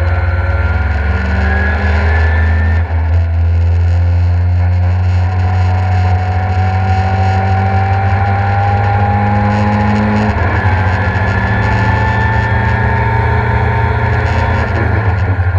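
Mk2 Ford Escort's swapped-in Mazda RX-8 rotary engine heard from inside the cabin, running hard on track with its pitch climbing slowly as it pulls. There is a brief break in the sound about three seconds in.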